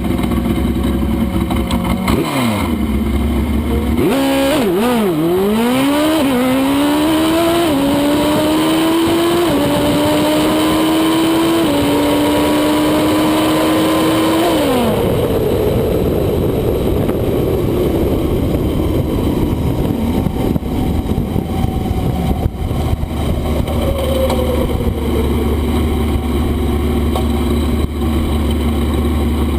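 Drag-racing motorcycle engine launching and accelerating hard down the strip. The pitch climbs and drops back at each of several quick upshifts. A little after halfway through the run it comes off the throttle, and the pitch falls away into a steady rushing noise as the bike rolls out.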